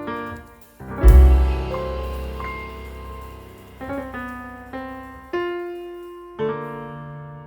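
Background piano music: single notes struck one after another, each fading away, with a loud deep bass note coming in about a second in.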